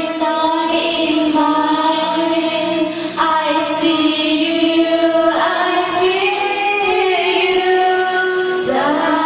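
Music with a voice singing long held notes, the melody shifting to a new pitch every second or two.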